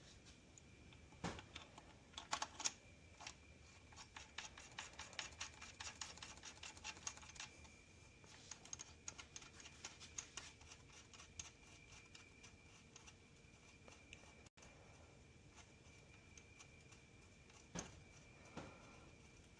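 Light, rapid, slightly irregular clicking for several seconds, typical of a ratchet wrench running down connecting-rod bearing cap bolts on a Continental Z134 gas engine, with a couple of single knocks near the end.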